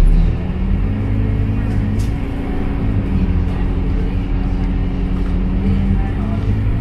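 Scania K230UB Euro IV single-deck bus's diesel engine running steadily, heard from inside the cabin as a low hum. A low thump sounds right at the start.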